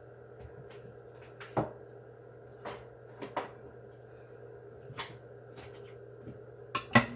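Scattered knocks and clinks of dishes and cupboard doors being handled during breakfast preparation, about half a dozen spaced a second or more apart with the loudest near the end, over a steady low hum.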